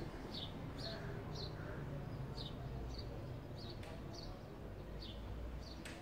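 A bird chirping faintly: a steady string of short high chirps, each falling in pitch, about two a second, over a low rumble.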